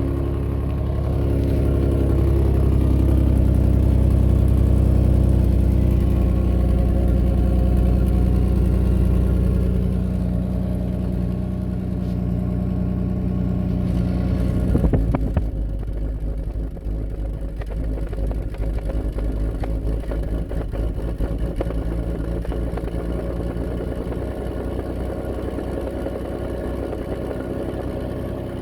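Nissan Maxima engine and exhaust running at a steady note, a hum that sounds like a rotary engine. About halfway through the note breaks up with a brief crackle and settles into a rougher, slightly quieter drone.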